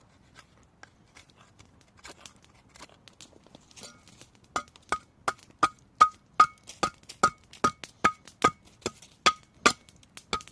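Wood-carving chisel struck with a hammer. A few light taps give way, about four and a half seconds in, to a steady run of sharp strikes, two to three a second, each with a short metallic ring.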